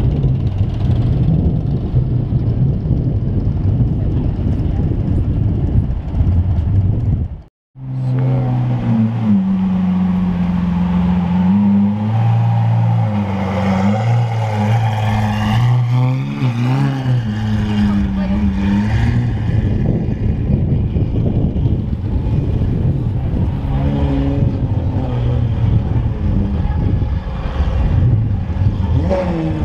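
Street traffic for the first several seconds. Then a Lamborghini Aventador SVJ's V12 runs at low speed close by, a steady low engine drone that wavers briefly in pitch, before it fades as the car moves off.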